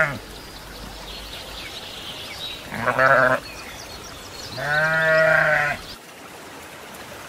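A goat-family animal bleating: a short, wavering bleat about three seconds in, then a longer, steady bleat about five seconds in, with faint bird chirps between them.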